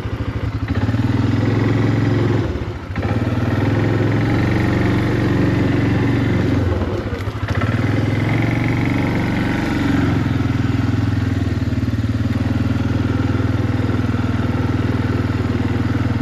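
Small vehicle engine running steadily at low speed, easing off briefly about three seconds in and again about seven seconds in before picking back up.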